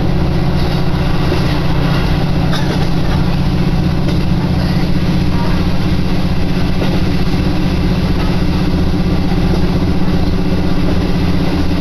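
Diesel railcar running steadily along the line, heard from inside the carriage: a constant low engine drone with running noise from the wheels and body.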